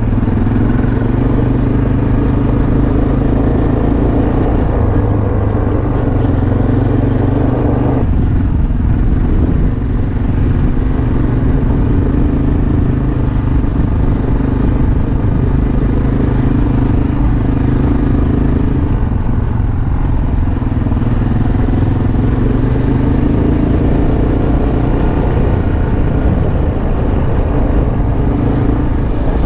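Dirt bike engine running steadily under way, heard loud from the rider's position. The engine note changes abruptly about eight seconds in.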